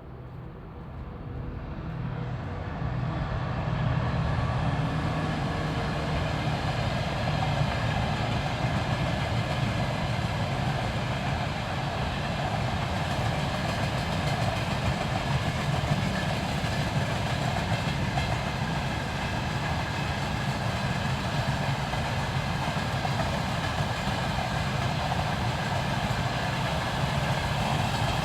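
Diesel locomotive hauling a freight train, its engine and rolling train growing louder over the first few seconds and then holding steady.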